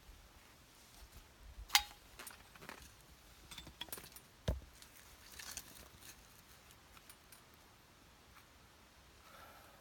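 Scattered knocks and light clicks of firewood being split and handled, with two sharper strikes about two and four and a half seconds in.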